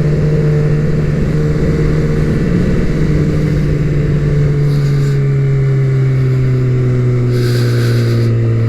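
Suzuki GSX-R750 sport motorcycle's inline-four engine running while riding, its pitch easing slowly and steadily down as the revs drop.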